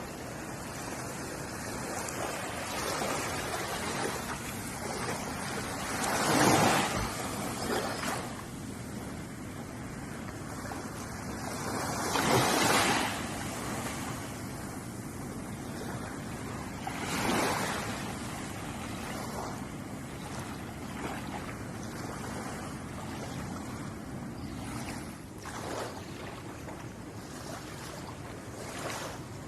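Ocean waves lapping against a shore: a steady wash of surf with three bigger waves swelling and breaking, about six, twelve and seventeen seconds in.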